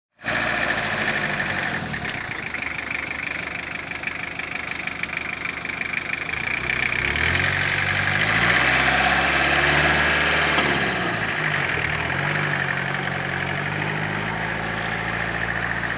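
A vehicle engine running under load, its pitch rising and falling twice between about seven and thirteen seconds in as it revs, over a steady hiss.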